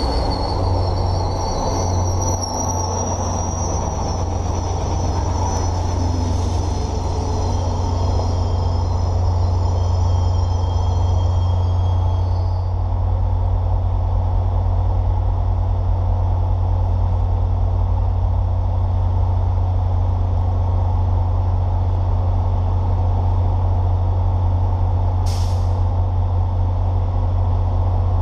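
MBTA commuter rail train braking to a stand: a high brake squeal that dips and dies out about twelve seconds in, over the steady low drone of the diesel locomotive. A short, sharp hiss of air from the brakes comes near the end.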